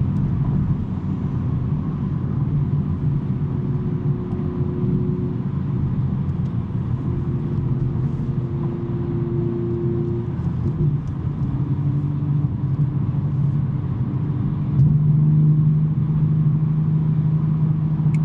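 BMW M3 G80's twin-turbo inline-six, with a non-resonated J-pipe, droning steadily under light load while cruising. Its pitch shifts slightly a few times, and it gets a little louder about three-quarters of the way through.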